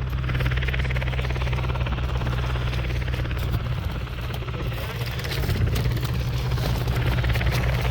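Helicopter running with a steady low engine and rotor drone and a fast, even rotor chop.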